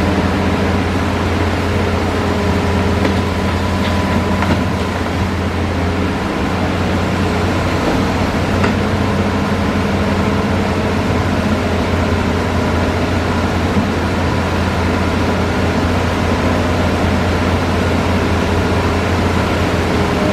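Hitachi Zaxis excavator's diesel engine running steadily under load, a constant low drone with a few faint clicks.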